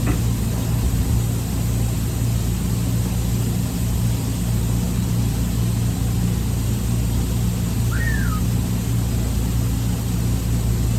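Steady, unchanging low mechanical drone of a running engine or machine, with one brief high squeak about eight seconds in.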